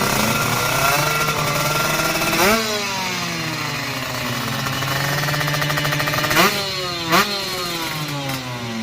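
Motorcycle engine running at a rattly idle, blipped sharply on the throttle about two and a half seconds in and twice more near the end, the pitch dropping back after each blip.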